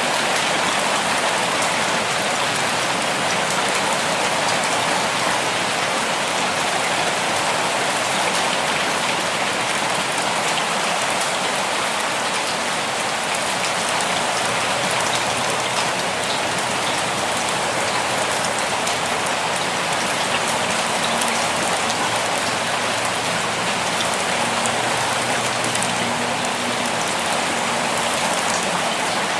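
Steady, gentle rainfall: an even hiss of many drops that keeps the same level throughout.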